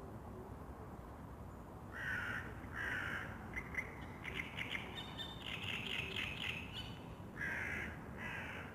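A crow cawing: two harsh caws about two seconds in and two more near the end, with quick chattering calls between them, over a steady low outdoor background hiss.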